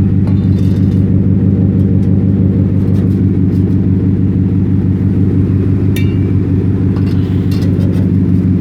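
Ford F-150's 5.0L V8 idling steadily through a Roush side-exit cat-back exhaust, with a loose exhaust tip held up to the outlet to change the tone. A few light clicks about six seconds in and again near the end.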